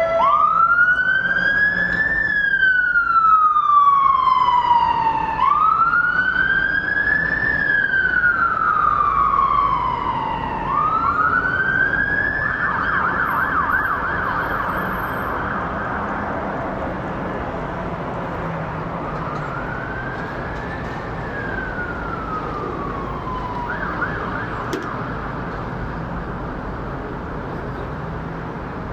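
Emergency vehicle siren in a slow wail, rising and falling about every five seconds. About halfway it switches to a fast yelp for a few seconds, then gives one more wail, growing fainter toward the end.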